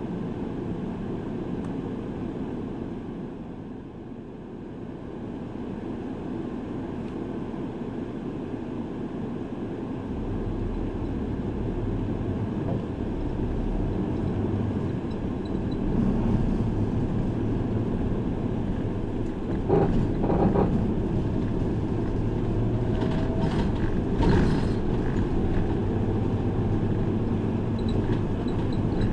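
Route bus interior while underway: steady engine and road rumble, which grows louder and deeper about ten seconds in, with a few short clunks and rattles in the second half.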